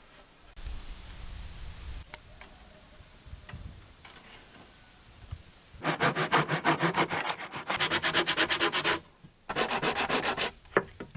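Wood being sanded by hand: quick back-and-forth rubbing strokes, about five a second, in a run of about three seconds and then a shorter run after a brief pause.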